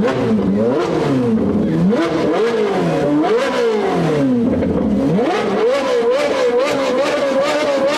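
Car exhaust note rising and falling in pitch about once a second, like repeated revs. About two-thirds of the way through it settles into a steady, slightly wavering pitch.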